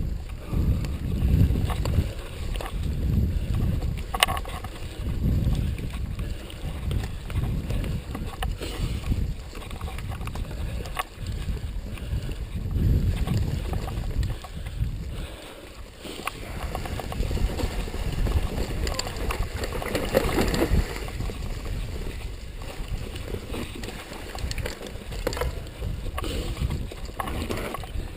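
Wind buffeting the microphone of a camera riding on a mountain bike, a gusting low rumble that swells and fades, with occasional sharp clicks and rattles from the bike over rough trail.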